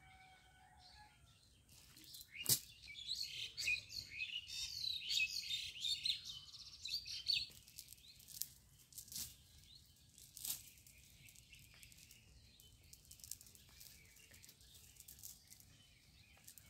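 Small birds chirping busily for about five seconds, with a sharp click about two and a half seconds in and a few fainter clicks later.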